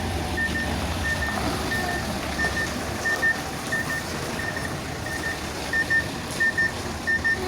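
A cement mixer truck's reversing alarm beeping steadily, about one and a half beeps a second, over the low rumble of its diesel engine running.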